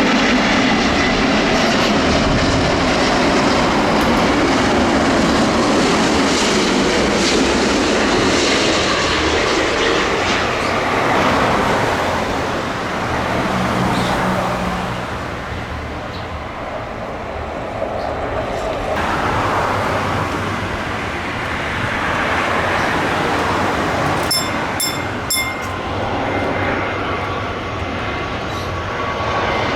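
Jet airliner engines, a loud steady roar that swells and eases. About three short high beeps come near the end.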